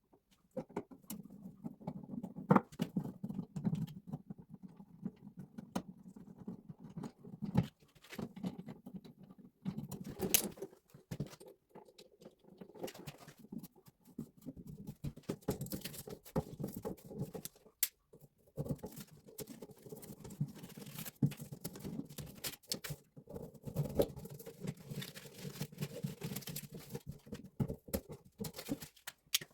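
Hand work on basement plumbing while disconnecting an old hose spigot: a busy, irregular run of clicks, taps and scraping, with several sharper knocks.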